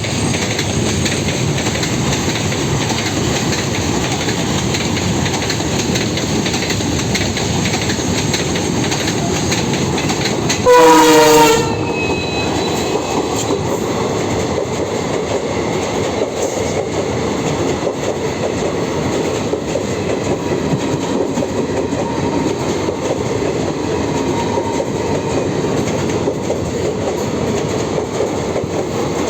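Express passenger train running through a station, its wheels clattering steadily over the rails, with one horn blast of about a second, the loudest moment, about eleven seconds in.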